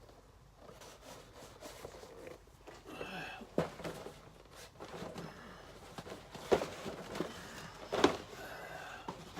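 Toy packaging being handled: rustling and shuffling, with a few sharp knocks or clicks, the loudest about six and a half and eight seconds in, and a brief squeak around three seconds in.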